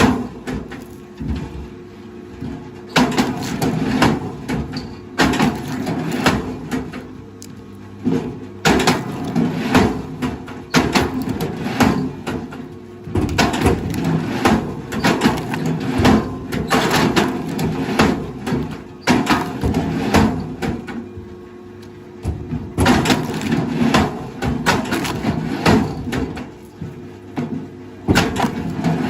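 Repeated wooden knocking and clattering in irregular clusters over a steady low machine hum.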